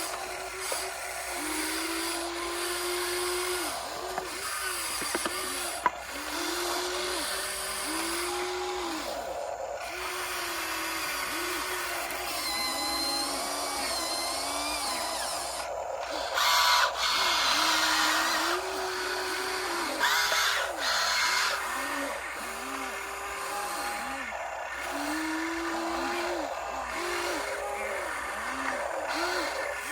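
RC excavator's hydraulic pump motor whining, its pitch climbing and falling back again and again as the hydraulics load up, over scraping and clattering from the digging. The digging noise grows louder for a few seconds around the middle.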